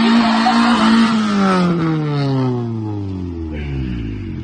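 Car engine held at high revs with a harsh hiss over it, then the revs fall away steadily over about three seconds.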